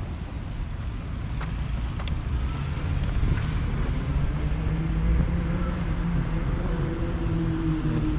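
Street traffic: a motor vehicle's engine running close by over a low rumble, growing louder from about three seconds in.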